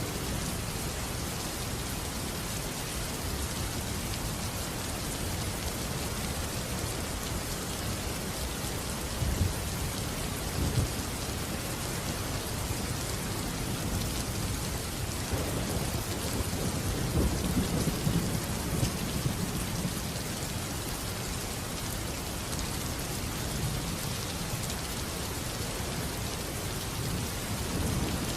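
Steady rain with low rolls of thunder: a short rumble about ten seconds in and a longer one in the middle.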